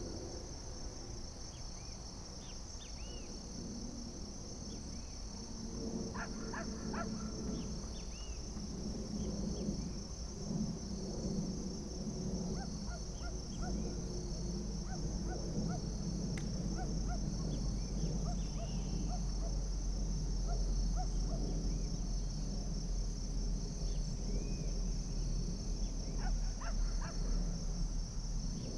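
Outdoor nature ambience: a steady high-pitched insect drone runs throughout, with many short animal calls scattered over it and thickening after the first several seconds.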